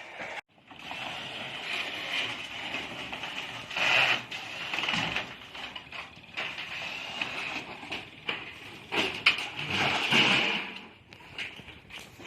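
House repair work: scattered knocks and clatter over a steady high hiss, with louder stretches about four and ten seconds in.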